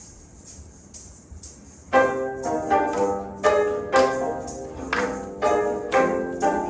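Live instrumental ensemble music: a jingling percussion beat plays softly, then about two seconds in the ensemble comes in loudly with pitched, accented chords on a steady beat.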